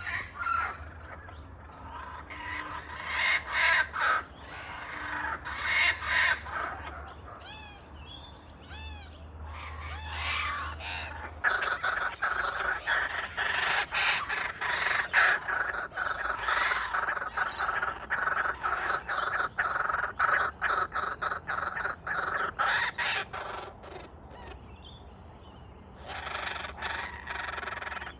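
Kookaburras calling: scattered harsh squawks, then after about eleven seconds a long run of rapid, rhythmic calls lasting some twelve seconds before dying down, with calls picking up again near the end.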